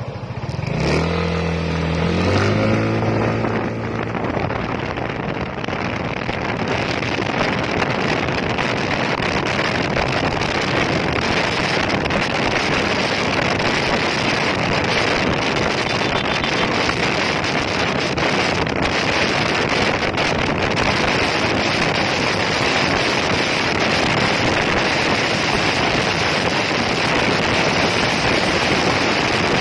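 Yamaha NMAX 155 scooter's single-cylinder four-stroke engine pulling hard from the start, its note climbing over the first few seconds. It then settles into a steady rush of engine and wind noise at full throttle on a top-speed run.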